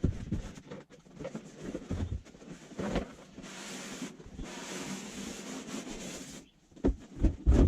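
Packaging being handled during unboxing: soft knocks, then about three seconds of steady rubbing and sliding, then a few dull thumps near the end.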